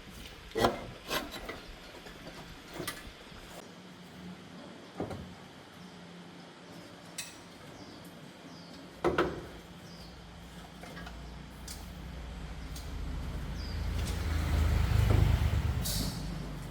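Scattered knocks and clinks of tools and parts being handled during work on a car, a few single hits in the first half. A low rumble builds up in the second half, loudest near the end, then eases.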